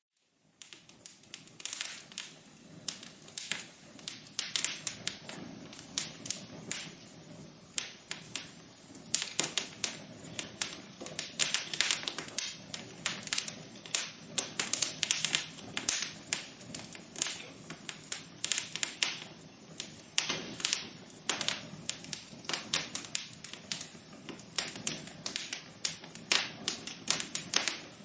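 Wood fire in a fireplace crackling: irregular sharp pops and snaps, several a second, over a soft steady hiss of burning. It starts a moment in, after a brief silence.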